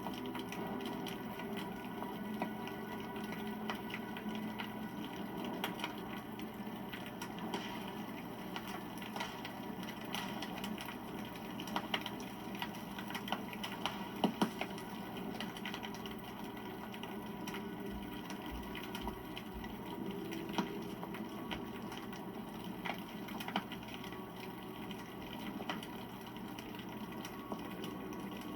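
Wood campfire crackling steadily with many small snaps, and a few louder pops about twelve and fourteen seconds in.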